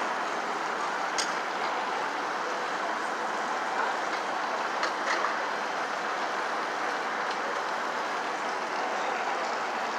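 Steady noise of vehicle engines and street traffic, with a few light clanks about a second, four seconds and five seconds in.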